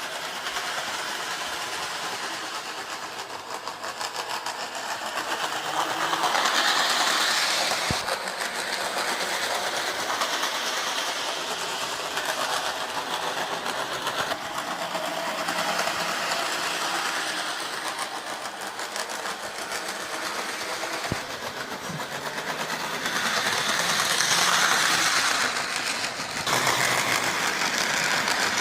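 Model train running around its track: a steady, rapid clicking clatter of wheels over the rails with the hum of its small motor. The sound grows louder twice, about a quarter of the way through and again near the end.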